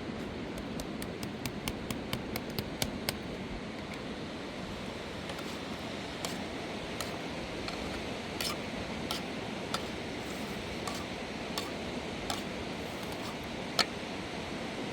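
Steady rush of a river, with scattered sharp clicks and knocks over it: a quick run of them in the first few seconds, then single ones, the loudest one near the end.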